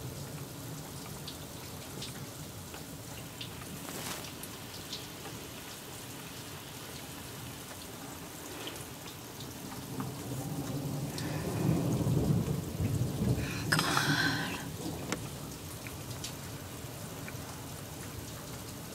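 Heavy rain falling steadily, with a long roll of thunder that builds about halfway through, peaks a few seconds later with a sharp crack, then dies away.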